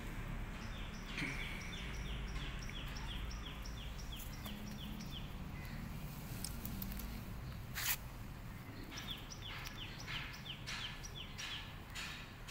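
A bird calling in two runs of short, falling chirps, about four a second, over a steady low outdoor rumble. A single sharp click about two-thirds of the way through is the loudest sound.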